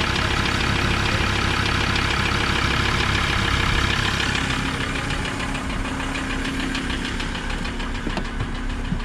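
Engine idling with a steady, rhythmic knocking that the inspecting buyer takes for a rod knock, a worn connecting-rod bearing. He also calls the engine a bit tappy.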